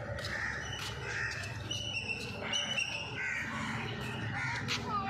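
Birds calling, with a run of short pitched calls about two to three seconds in, over a low steady background hum.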